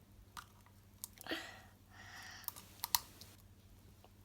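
Plastic toy packaging crinkling and clicking as a child tugs at its tear strip: a few sharp irregular clicks with short crackles between them.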